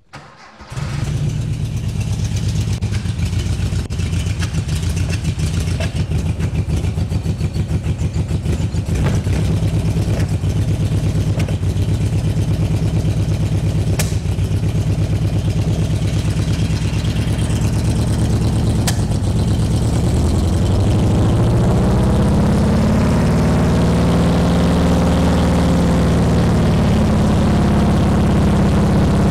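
Porsche 912's 1600cc air-cooled flat-four starting about half a second in and then running steadily at idle, freshly installed and on its first runs. Around twenty seconds in the revs climb and hold higher as the throttle is worked by hand at the engine.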